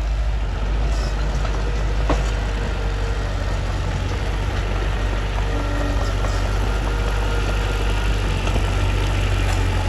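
Mitsubishi bulldozer's diesel engine running steadily, with a single sharp knock about two seconds in.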